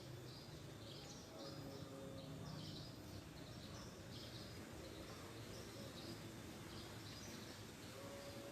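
Faint garden ambience with short high chirps repeating every second or so.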